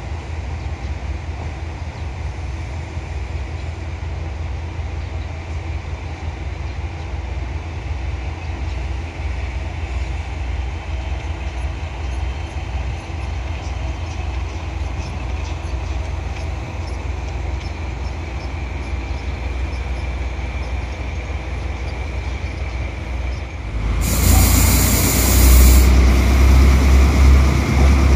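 A train at a station platform gives a steady low rumble. About 24 seconds in, a sudden loud hiss lasts about two seconds, and the rumble grows louder after it.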